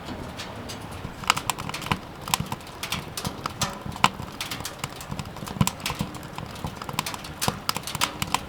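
Irregular light clicks and knocks, several a second, starting about a second in, as of hard objects being handled or tapped.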